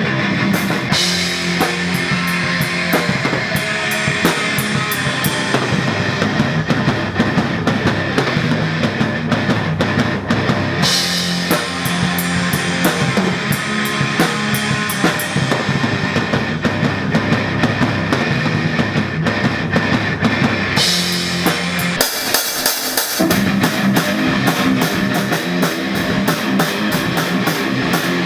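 Rock band playing an instrumental passage: a drum kit with bass drum and cymbals over electric guitar, with a big cymbal crash about every ten seconds.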